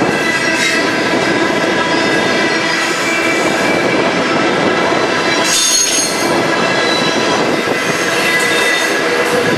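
Intermodal freight cars loaded with truck trailers rolling past close by: a steady, loud rumble and rattle of steel wheels on rail, with thin, high-pitched wheel squeal throughout. A brief, louder screech comes about five and a half seconds in.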